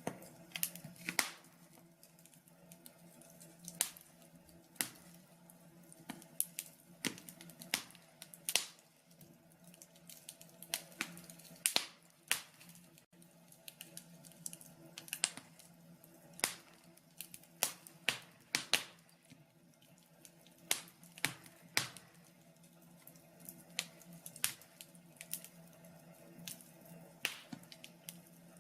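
Wood fire crackling in a log burner: irregular sharp snaps and pops, several bunched together at times, over a faint steady low hum.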